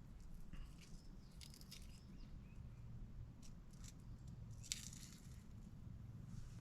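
Faint, scattered short rustles and scrapes, the loudest about two-thirds of the way through, over a low steady rumble.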